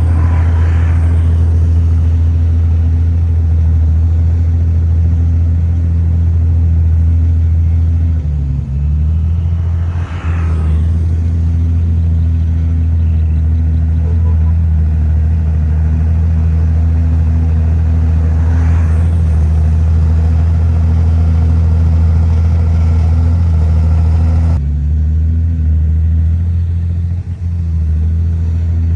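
Heavy diesel engine of earthmoving machinery running under load, a steady low drone that shifts in pitch about 9 seconds in and again near 25 seconds. Three short rushing noises break in over it, about half a second, ten and nineteen seconds in.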